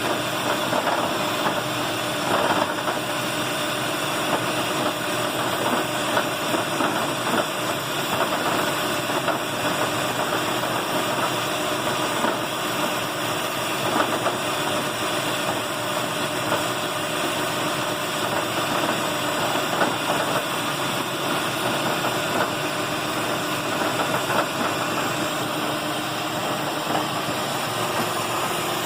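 2008 Lexus RX 400h's 3.3-litre V6 petrol engine idling in Park with a steady rattle and a running patter of small ticks. The rattle comes on when the engine runs on by itself after the car has stopped, and it appeared after the spark plugs were replaced; the owner does not know its cause.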